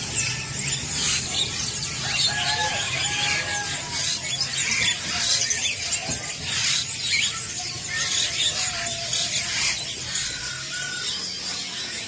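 Many caged songbirds calling at once: a dense jumble of high chirps and squealing calls, with a few longer whistled notes in a lower pitch.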